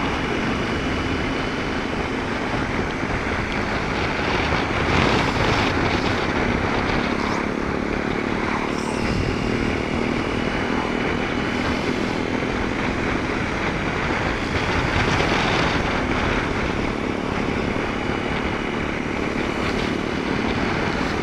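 BMW R 1250 GS Adventure's boxer-twin engine running at a steady cruising speed, mixed with heavy wind and wet road noise on the rider's microphone in the rain.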